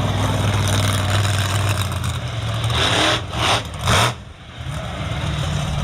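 A heavy vehicle's engine idling steadily. About three to four seconds in, a few loud rushing noises break across it, then it drops away for a moment and comes back at a slightly different pitch.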